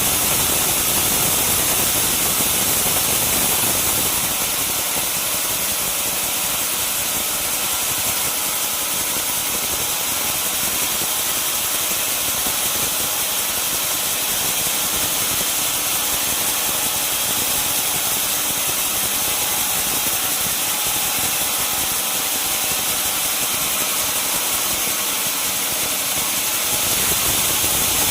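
Sawmill wheel saw running steadily with a loud, even high-pitched hiss. The low rumble drops away about four seconds in and comes back near the end.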